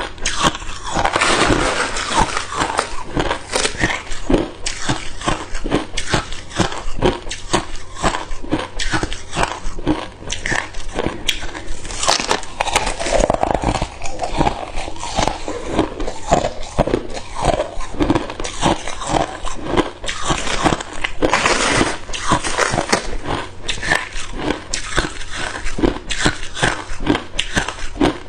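Hard ice cubes being bitten and chewed close up, a dense run of sharp, irregular crunches and crackles, several per second, with no pauses.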